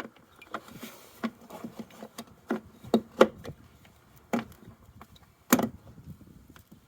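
Hard plastic clicks and knocks from a car windscreen washer pump and its fittings being refitted into the washer reservoir by hand: a string of separate sharp taps, the loudest about three and five and a half seconds in.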